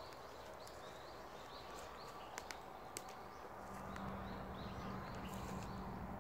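Quiet forest ambience with a bird calling in short chirps repeated every half second or so, and a few sharp clicks a little past the middle.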